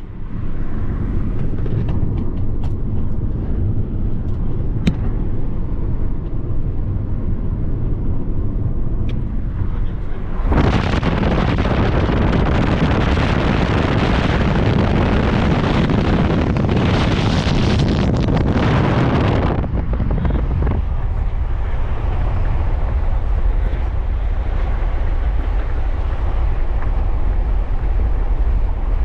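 Car driving, with a steady rush of road and wind noise in the cabin. From about ten to twenty seconds in the rushing turns louder and brighter, then settles back.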